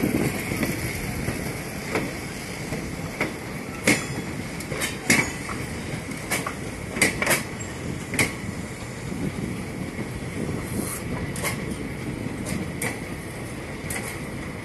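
Two passenger trains running side by side on adjacent tracks, heard from the open doorway of one: a steady rolling rumble of wheels on rail, with a dozen or so sharp, irregular clacks as the wheels cross rail joints and points, and a thin steady high hum underneath.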